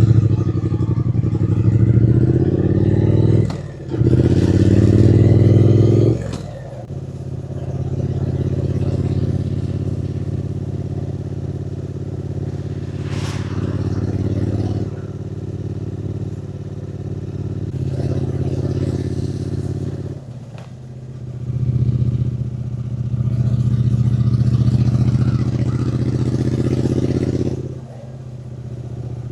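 Triumph Speed Twin 900's parallel-twin engine and exhaust heard from the bike while riding: it revs up through the gears with a short break for a shift about three and a half seconds in, then cruises steadily. The throttle closes about two-thirds of the way through, the engine pulls again, then backs off near the end.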